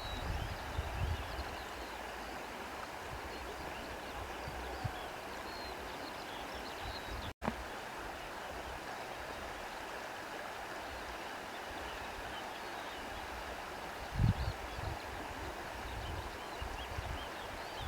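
Steady rush of wind through trees with faint birdsong over it. Low buffets of wind hit the microphone about a second in and again near the end.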